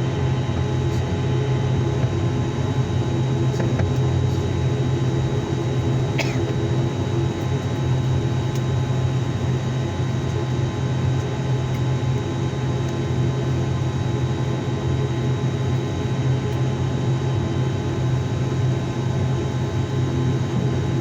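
An ATR 72-600's turboprop engines running, heard inside the cabin as a steady low drone with a few constant higher tones over it.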